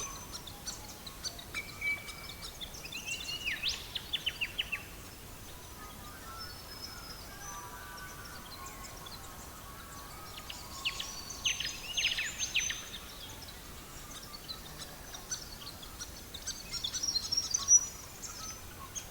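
Songbirds singing: clusters of quick falling notes about three seconds in and again around eleven to thirteen seconds, with scattered chirps and a burst of twittering near the end, over a faint steady hiss.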